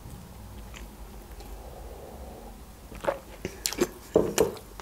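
Close-miked mouth sounds of eating: quiet at first, then, about three seconds in, a quick run of sharp wet clicks and smacks of chewing.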